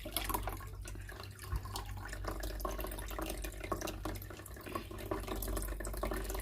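Dirty water running and dripping out of a Bosch Maxx7 washing machine's drain outlet into a plastic basin, a steady trickle with many small splashes. The machine cannot pump itself empty (E18 drain error), so the trapped wash water is let out by hand.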